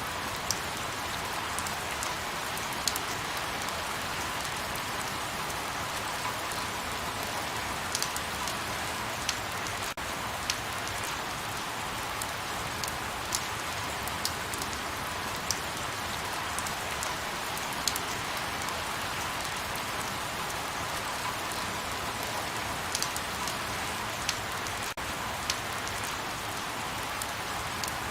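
Light rain falling steadily, an even hiss with scattered sharper drops ticking now and then.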